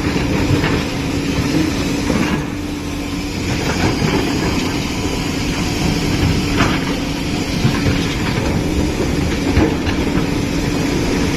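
Diesel engine of a JCB 5CX backhoe loader running steadily, with a constant hum and a few scattered knocks and clatters from the working machine.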